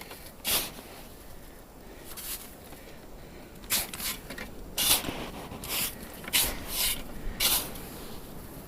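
Snow shovel cutting and scraping into packed snow, several short scraping strokes at uneven intervals.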